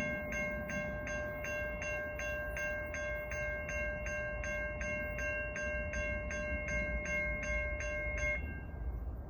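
Railroad grade crossing bell ringing at a quick, even pace of about three dings a second, then cutting off about eight seconds in, over a low rumble.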